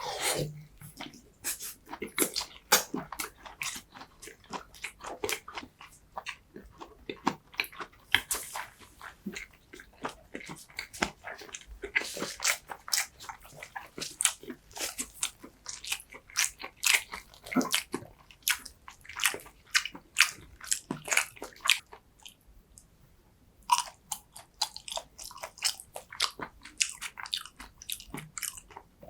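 Close-miked eating sounds: chewing and biting, with many small, irregular, wet mouth clicks and smacks. They stop briefly about two thirds of the way through, then resume.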